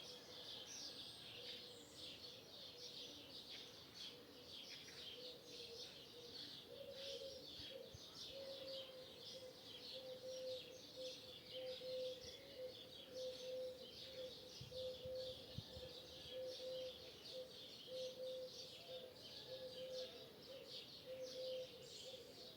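A dawn chorus of starlings: many birds chirping and whistling in a dense, continuous chatter. A low note repeats steadily underneath from about a third of the way in.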